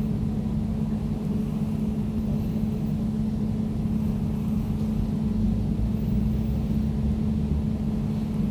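Air conditioner running steadily: a low hum with one constant tone over a rumble.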